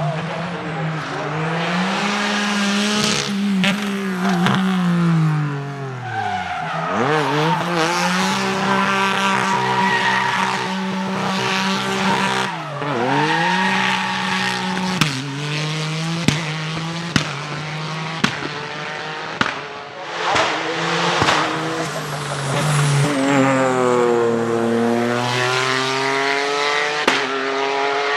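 Drift car engine held at high revs as the throttle is worked. Its pitch drops sharply and climbs back twice, over steady tyre squeal, with several sharp cracks in the middle stretch.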